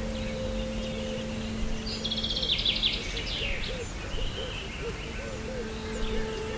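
Forest ambience of steady noise with birds calling, including a rapid trill of chirps a couple of seconds in, over low steady humming tones.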